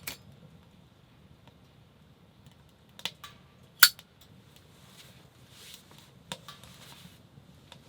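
A few sharp clinks and taps of cups and utensils being handled, the loudest just before four seconds in, over a quiet steady background.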